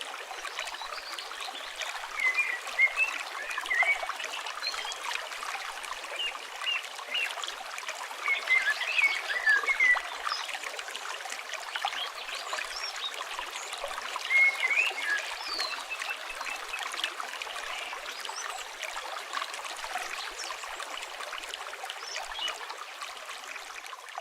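River water flowing and trickling steadily, with short chirping bird calls in a few brief clusters.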